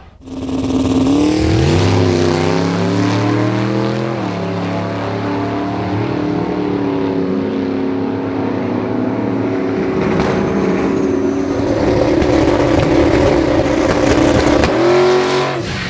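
Race car engine under hard acceleration, pitch climbing, then a gear change about four seconds in, after which it pulls steadily before easing off near the end.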